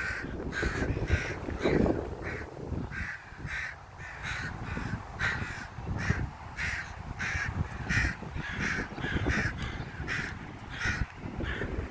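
Several crows cawing over and over, about two harsh caws a second without a break: alarm calls of crows mobbing and swooping at a person near their tree. A low rumble runs underneath.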